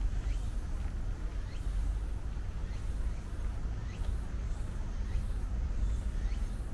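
Short bird chirps repeating roughly once a second over a steady low rumble of distant city traffic.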